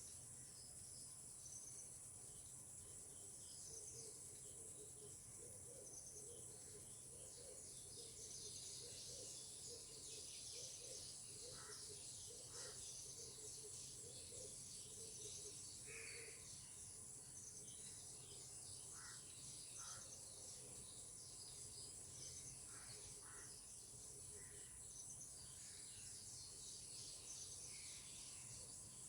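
Faint outdoor nature ambience: insects shrill steadily and high, and birds call now and then, with a warbling low song in the first half and a few short, separate calls later on.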